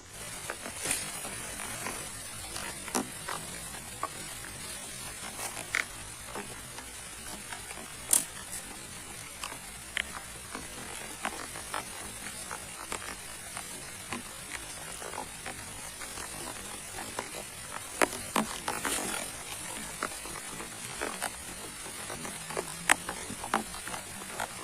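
Steady rain in a forest, with scattered louder drips and taps.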